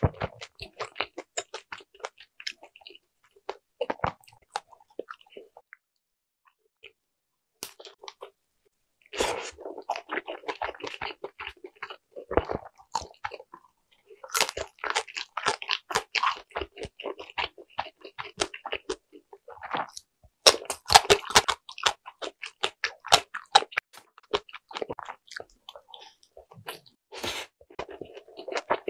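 Close-miked chewing of a mouthful of dumplings: a dense run of small wet clicks and crackles, with a lull of a few seconds near the start.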